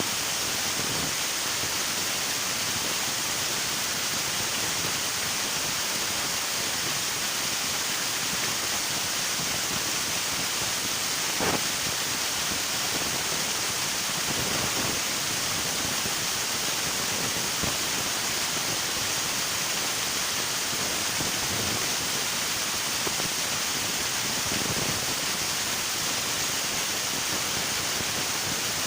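River water rushing steadily, an even hiss of flowing water, with a brief louder splash about a third of the way in.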